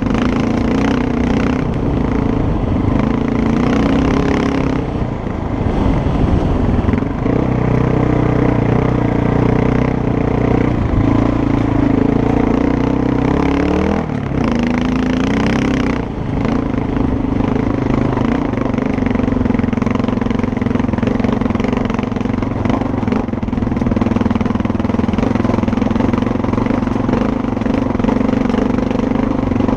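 Dual-sport motorcycle engine running under way, its note steady for long stretches, shifting down in pitch about six seconds in and rising and falling quickly around fourteen seconds, as with throttle and gear changes.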